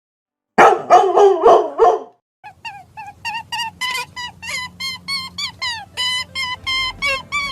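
Four loud, harsh animal calls in quick succession, followed by a rapid run of short, high, yelping notes over soft background music.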